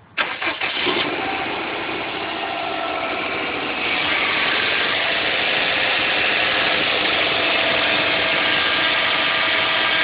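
Saab 9-2X Aero's turbocharged flat-four engine starting from cold: a few quick pulses as it catches, then running at a steady, raised cold idle that grows louder about four seconds in.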